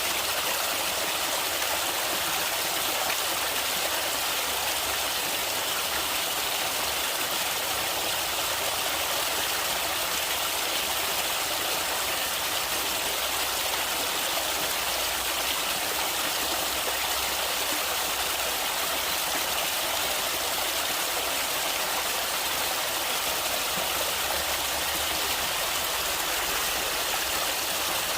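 Water flowing in a stream, a steady rushing hiss that stays even throughout, with little low rumble.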